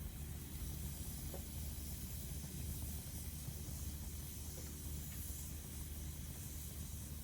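Hardwood fire burning in a Picogrill titanium fire pit: a steady hiss over a low rumble, with a few faint crackles.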